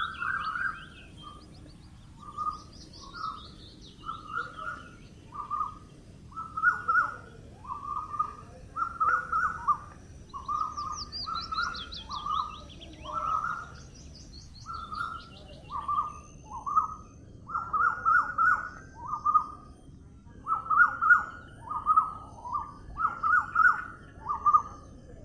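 Birds singing: one bird repeats short mid-pitched calls about once or twice a second, while another gives several high trills that fall in pitch over a second or two.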